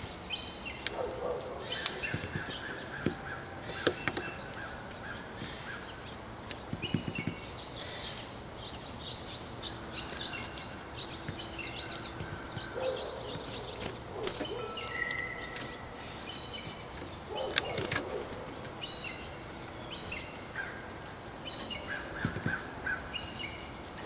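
Small birds chirping in short repeated phrases throughout, with scattered sharp taps as a downy woodpecker pecks at a seed cake on concrete, the loudest about two, four and eighteen seconds in.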